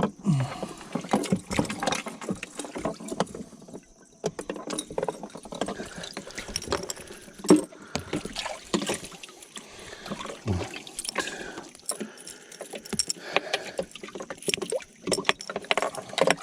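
Water splashing and sloshing around a small fishing boat, with scattered irregular clicks and knocks, the loudest about seven and a half seconds in.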